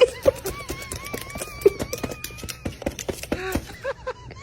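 Parrot making short chattering sounds and a thin wavering whistle over rapid sharp clicking.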